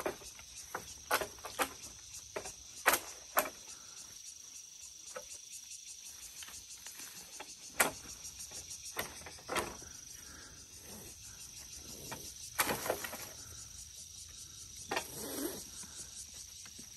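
Irregular sharp knocks of a blade chopping at the bird-net rigging, a dozen or so strikes spread unevenly, over a steady high trill of insects.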